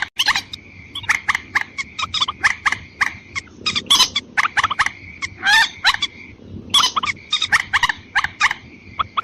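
Recorded calls of a mandar rail played as a bird lure: rapid runs of short, sharp, clucking notes, several a second, in clustered bursts. A steady high tone runs beneath them.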